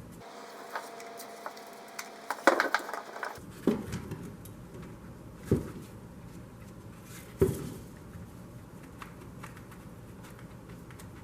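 Small hard objects being handled: scattered light clicks, a short rattling clatter about two and a half seconds in, then single knocks about two seconds apart.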